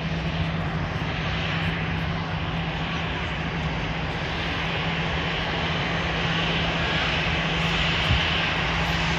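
Jet airliner engines: a loud, steady roar with a low hum underneath, slowly building in loudness.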